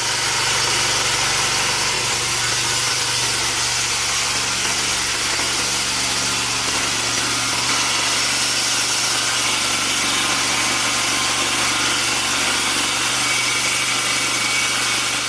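A homemade sawmill running steadily: a constant machine hum with an even hiss over it.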